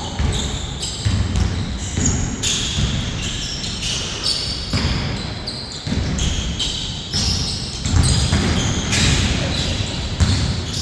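Basketball game play in a reverberant hall: the ball bouncing on the court in repeated thuds, with many short high squeaks of sneakers on the floor.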